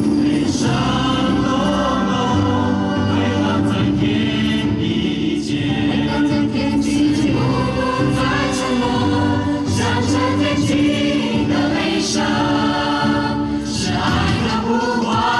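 Choir singing a wordless melody over musical accompaniment with steady sustained low notes.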